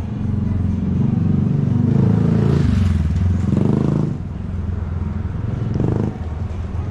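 A motor vehicle's engine running close by on a city street, rising in pitch about three and a half seconds in and then falling away at about four seconds.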